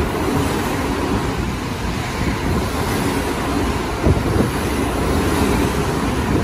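Electric commuter train running past the platform at speed: a steady rush of wheels on rail and moving air, with a short knock of wheels over a rail joint about four seconds in.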